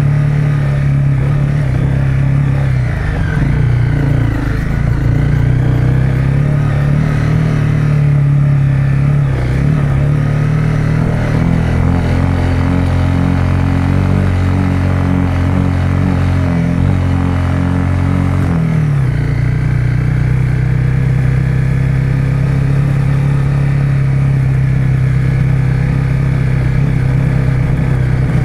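Honda CRF250 Rally's single-cylinder engine running as the bike is ridden along a gravel track, its note dropping and picking up several times with throttle and gear changes, most clearly about twelve and nineteen seconds in.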